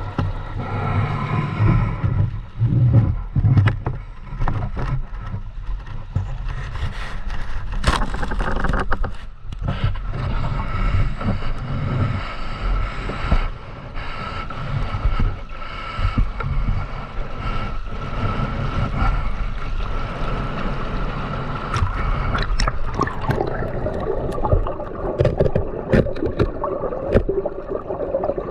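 River water rushing and gurgling past the microphone, with a steady low rumble and scattered sharp clicks and knocks throughout.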